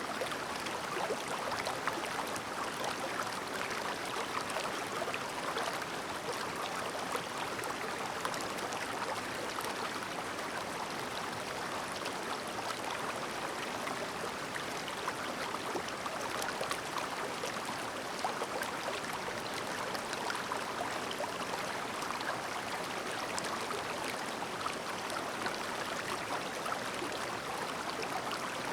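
Clear river babbling: a steady, unbroken murmur of flowing water, flecked with small trickles and splashes.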